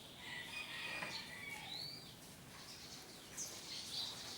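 Canaries singing and chirping: several overlapping high whistled notes and short trills, with an arching whistle about two seconds in.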